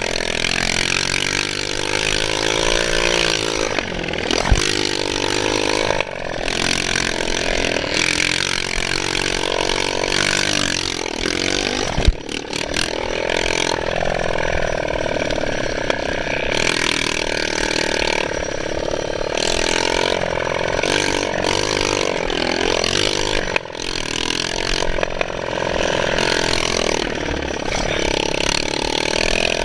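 Motocross bike engine being ridden hard, its pitch rising and falling as the rider revs and eases off, over steady wind and rushing noise. Two sharp knocks cut through, about four and twelve seconds in.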